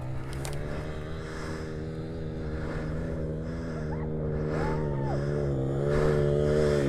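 Dirt bike running at a steady pitch, gradually getting louder.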